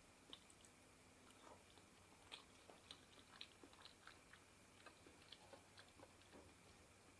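A person chewing and eating close to the microphone: faint, irregular short clicks from the mouth, a few a second.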